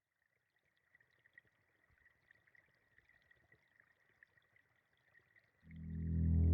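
Faint trickle of a woodland stream, quiet and sparse, then a low sustained musical drone swells in loudly about five and a half seconds in.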